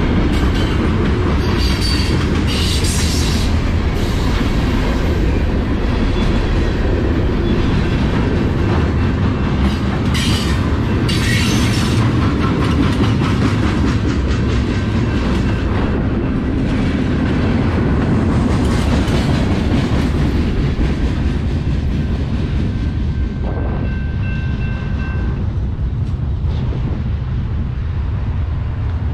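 CSX freight train's cars rolling past steadily, their wheels clacking over the rail joints, with a brief high wheel squeal near the end.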